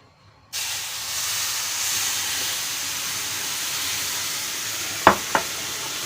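Hot sugar syrup poured into flour roasting in hot oil for helva: a sudden loud sizzle and hiss of spurting steam that starts about half a second in and holds steady. Two sharp knocks come near the end.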